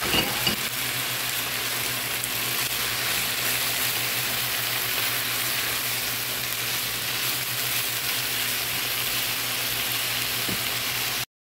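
Chicken and freshly added mixed vegetables sizzling steadily in oil in a frying pan, stirred with a spatula that scrapes the pan a couple of times near the start. The sound cuts off abruptly near the end.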